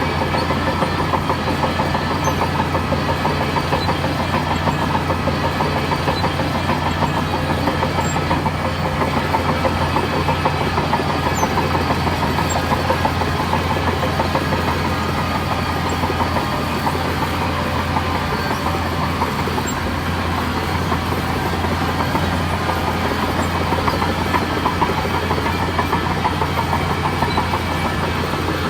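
Heavy diesel engine of a bulldozer running steadily, with a fast, even clatter over a constant low hum.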